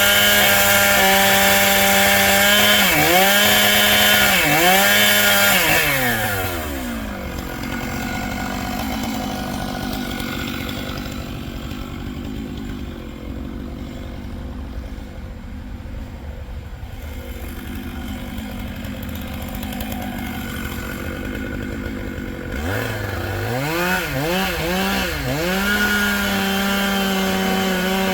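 Gas chainsaw cutting a bur oak at full throttle, its pitch dipping twice under load. About six seconds in it drops back to idle for roughly fifteen seconds, then is revved back up with several quick throttle blips and runs at full speed again.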